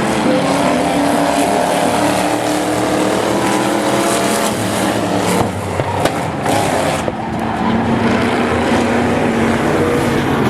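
Several speedway race cars' engines running at speed on the track, their pitch rising and falling as they pass. A few sharp knocks come about five to seven seconds in.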